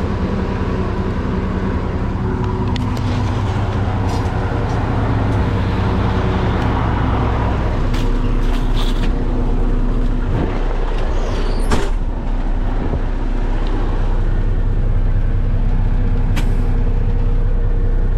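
Concrete mixer truck's diesel engine running steadily, its note shifting lower about halfway through, with a brief hiss near the middle.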